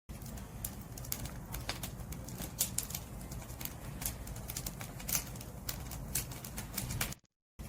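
Firewood burning in an open fire, crackling with many irregular sharp snaps and pops over a steady low rumble of the flames. The sound cuts out completely for a moment near the end.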